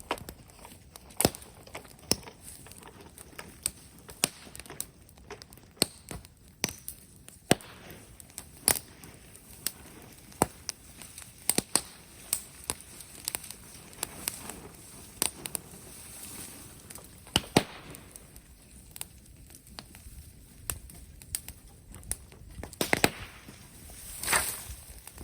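Bonfire of scrub wood crackling, with sharp, irregular pops and snaps over a low hiss; a quick cluster of louder pops comes near the end.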